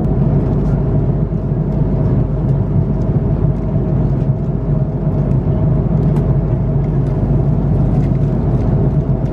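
Steady cabin drone of an Airbus A330-300 in motion: a deep rumble with a steady hum over it and faint light rattles.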